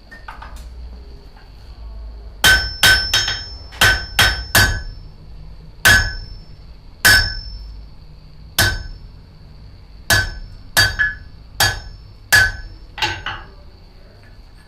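A blacksmith's hammer striking metal on an anvil about seventeen times in irregular clusters, each blow ringing briefly with a clear metallic tone. The blows begin a couple of seconds in and stop shortly before the end.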